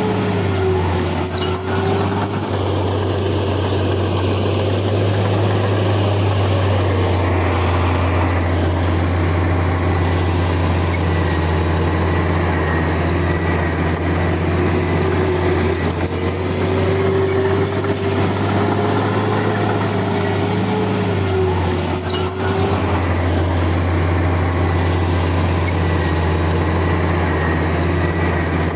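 Heavy diesel earthmoving machinery running steadily: a deep engine drone with a whine above it that wavers, bending in pitch about 8 seconds in and again around 21 seconds.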